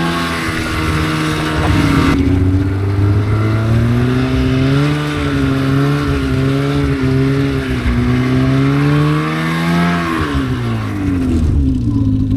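Polaris RMK snowmobile's two-stroke engine revving up and down unevenly as the sled bogs down stuck in deep powder. About ten seconds in the revs drop sharply and settle to a steady idle.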